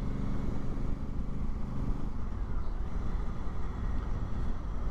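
Honda Africa Twin motorcycle engine running on the road with heavy low wind noise. About two seconds in, the engine note drops as the bike slows.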